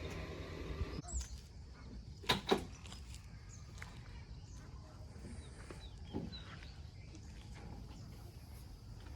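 An engine's steady drone cuts off abruptly about a second in, leaving quiet outdoor ambience with scattered bird chirps, two short sharp sounds close together, and a faint low hum.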